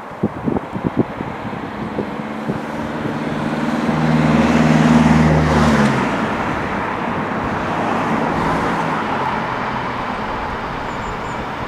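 A diesel locomotive passing with its train. The engine note builds, is loudest about four to six seconds in, then drops away, leaving the steady rumble of the train running by. Wind buffets the microphone at the start.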